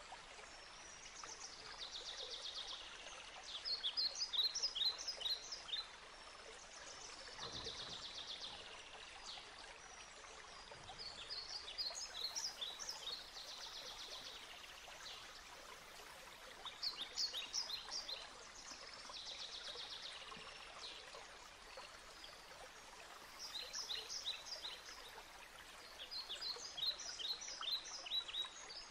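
Faint bird song: a short phrase of quick high chirps repeated every few seconds, over a steady hiss like running water.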